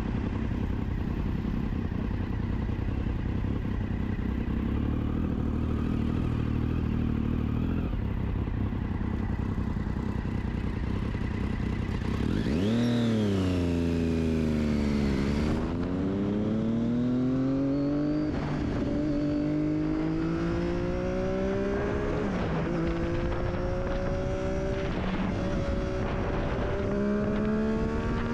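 Triumph Daytona 675's inline three-cylinder engine through an Akrapovic exhaust. It runs steadily for about twelve seconds, then revs sharply and falls away. From about halfway it pulls up through the gears, the pitch climbing and dropping back at each of several upshifts.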